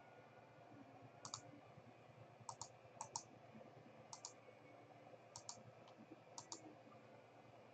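Faint computer mouse clicks, about seven quick double clicks spaced irregularly, over a low steady room hum.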